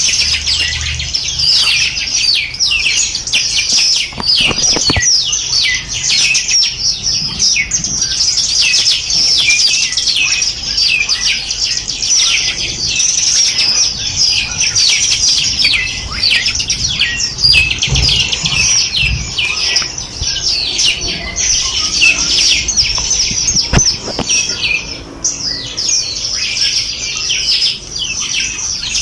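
Many small songbirds chirping and trilling together in a dense, continuous chorus of rapid high notes, many of them quick downward sweeps.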